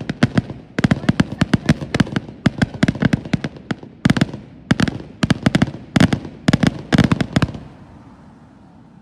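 Fireworks going off in a fast barrage of sharp bangs and crackles, coming in quick clusters of several per second, then stopping about seven and a half seconds in.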